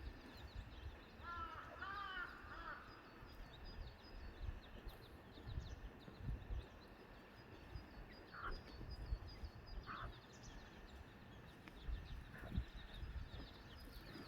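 A hen with her chicks: a short run of arched calls about two seconds in, brief calls around eight and ten seconds, and scattered high cheeps throughout, over a low rumble of wind on the microphone.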